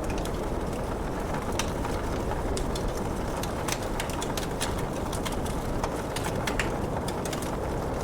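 Wood fire crackling, with irregular sharp pops and snaps over a steady hiss of falling rain.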